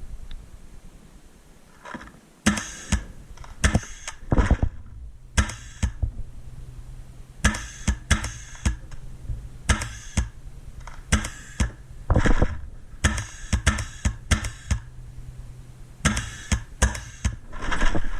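Paintball markers firing in quick strings of shots, a few pops at a time, repeatedly throughout after a brief lull at the start.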